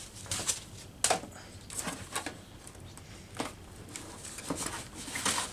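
Foam packaging insert and cardboard box being handled and pulled apart: irregular light knocks, scrapes and rustling.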